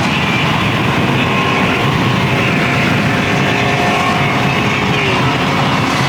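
Loud, steady engine and exhaust noise of several cars pulling out of a car meet together.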